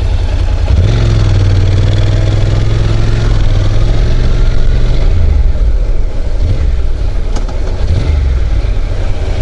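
Motorcycle engine running at low speed. It picks up about a second in, holds steady, then eases off about five seconds in.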